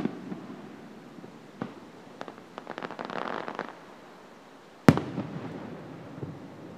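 Aerial firework shells bursting. There is a sharp bang at the start, a smaller pop about a second and a half in, and a spell of dense crackling around three seconds in. A second loud bang comes near five seconds. Each loud bang trails off in a long echo off the gorge.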